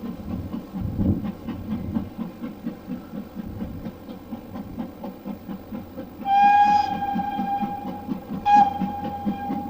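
A train whistle blows twice, a single-pitched long blast of about two seconds and then a shorter one. Under it runs the steady rhythmic beat of the moving train.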